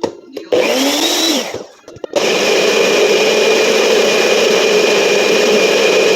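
Countertop blender blending a smoothie: a short pulse of about a second, then a steady run of about four seconds that stops abruptly.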